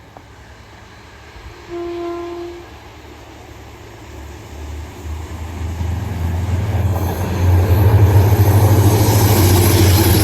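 Caledonian Sleeper train approaching: a horn sounds once, briefly, about two seconds in, then the train's rumble builds steadily until it is loud near the end, a low drone with rising hiss from the wheels on the rails.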